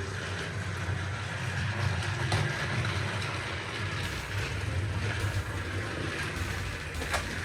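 Battery-powered motorised Talking James toy engine running along its track: a steady low motor hum with rattling. There is one sharp click near the end.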